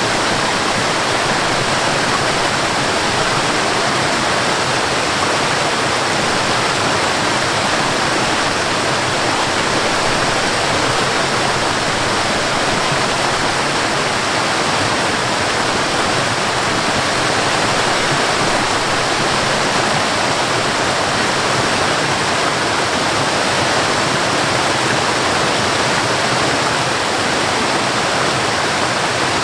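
Waterfall: water falling and splashing in a steady, continuous rush that does not change.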